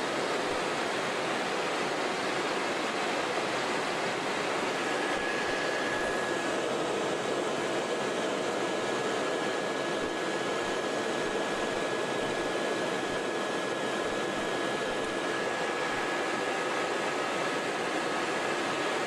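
Helicopter running steadily in flight, heard from on board as a constant rushing noise, with a faint steady whine that comes in about five seconds in.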